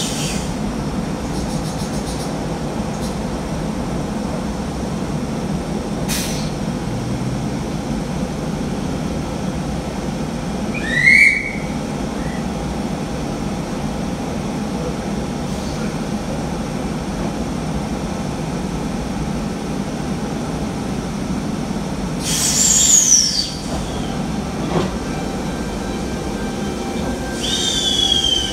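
Double-deck intercity electric train pulling out of the platform with a steady rumble and hum. Its wheels give short squeals: a rising one about a third of the way in, then two falling ones near the end, the first of these the loudest sound.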